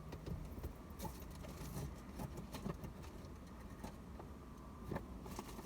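Scattered soft clicks, taps and rustling from handling small car-decoration accessories, over a low steady hum.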